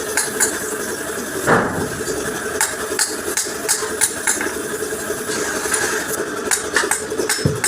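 Hammer blows on a steel truck bumper being beaten out of a dent: sharp, irregular strikes, roughly one or two a second, the loudest about a second and a half in. An engine runs steadily underneath.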